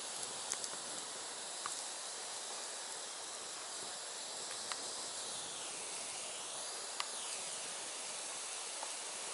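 Firewood burning: a steady hiss with scattered sharp crackles and pops, the loudest about seven seconds in.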